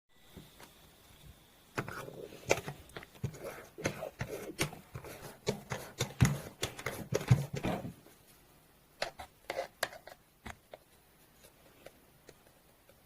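Green foam slime being squished and poked by hand: a dense run of wet clicks and popping bubbles from about two seconds in until about eight seconds, then a few scattered pops.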